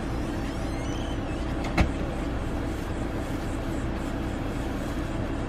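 Car idling, heard from inside its cabin: a steady low hum. A single sharp knock sounds about two seconds in.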